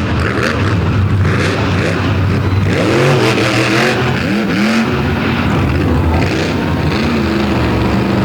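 Monster truck engine revving hard in a run of blips, its pitch swinging up and down several times before settling to a steady, heavy drone near the end.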